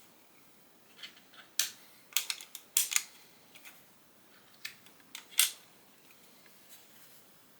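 Lego plastic bricks and pieces clicking and snapping together. A quick run of sharp clicks comes in the first three seconds, then a few more a little past halfway.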